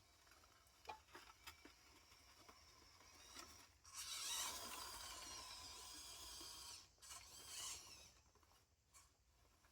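Light clicks and taps, then a small electric motor whirring for about three seconds before cutting off, with a shorter whir just after.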